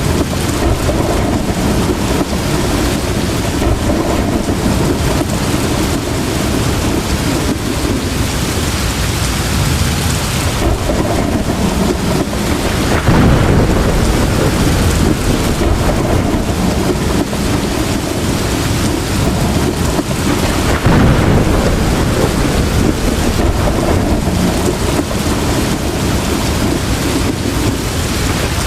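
Heavy rain falling steadily, with rolling thunder rumbles that swell up near the middle and again about two-thirds of the way through.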